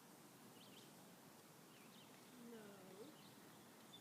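Faint outdoor ambience with a few short, high bird chirps and a brief gliding call about two and a half seconds in.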